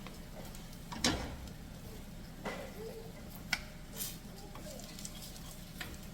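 Kitchen cooking sounds: a handful of separate knocks and clinks of cookware and utensils, the loudest about a second in, over a low steady hum.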